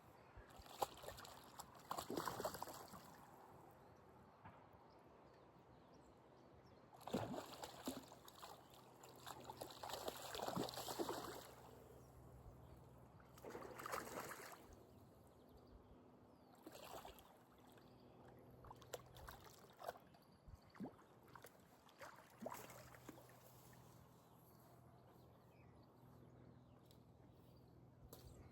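Hooked common carp splashing at the water's surface in several bouts, the biggest in the first half, then smaller splashes.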